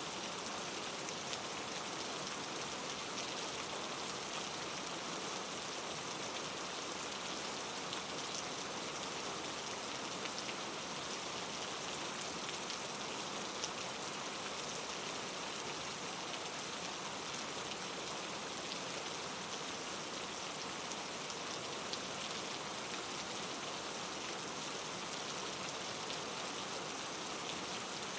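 Steady pattering hiss of falling precipitation, like rain, with many small, fine drop ticks and no change in its level.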